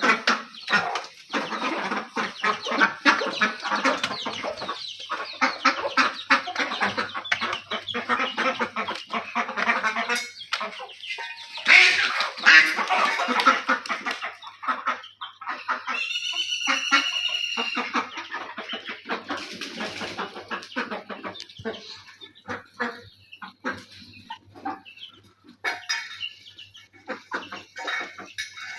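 Chickens clucking as a mixed flock of chickens and ducks feeds, with many quick clicks and taps throughout. About halfway through, a high, evenly repeating bird call stands out briefly.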